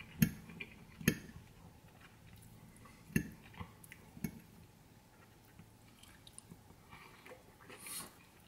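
A person chewing a mouthful of food, with a few sharp wet clicks in the first four seconds, then softer chewing.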